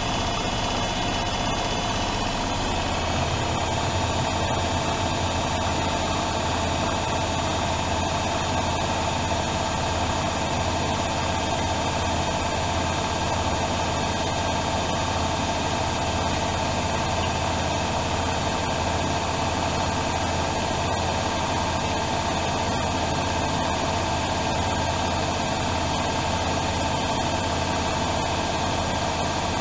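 Privileg Dynamic 7420 washing machine running with a steady motor hum and whine. About three seconds in the note changes, a deeper hum strengthens and a higher tone appears, then it holds steady.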